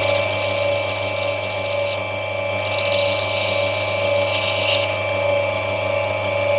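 Opal being ground against a running lapidary grinding wheel: a steady motor hum with a harsh grinding hiss in two spells, broken briefly about two seconds in. The grinding stops about five seconds in while the motor runs on.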